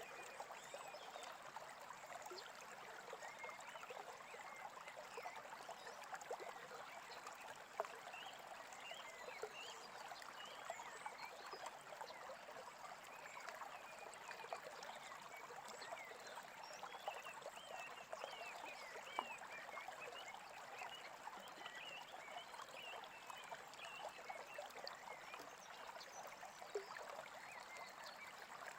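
A small stream babbling steadily, with birds chirping over it.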